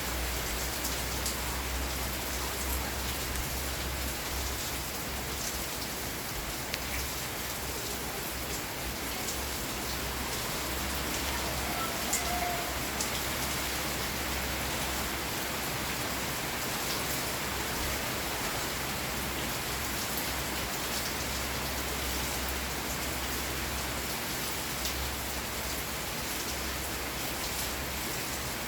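Steady rain falling, with single drops ticking sharply through the hiss and a low rumble underneath.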